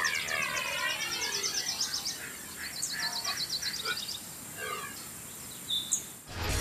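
Birdsong: rapid high chirps and trills, thinning out and cutting off near the end.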